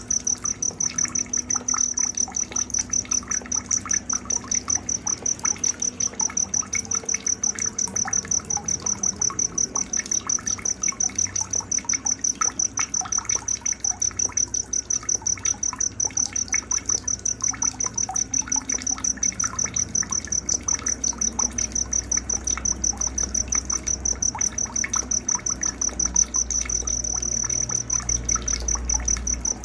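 Night-time nature ambience: a high-pitched insect trill pulsing at an even, rapid rate, with faint bird chirps scattered underneath. A low rumble comes in during the last few seconds.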